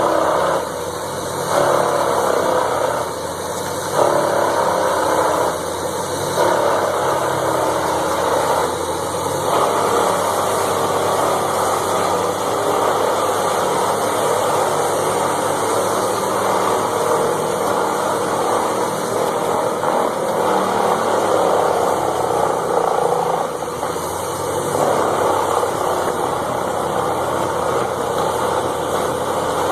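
A large engine-driven machine running steadily, with a few short surges in load during the first ten seconds.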